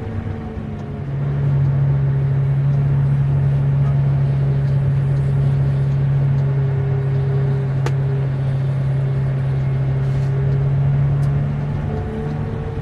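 Mining haul truck's diesel engine running, its low drone rising about a second in to a strong, steady pitch held under power, then easing back near the end. A single sharp click sounds about halfway through.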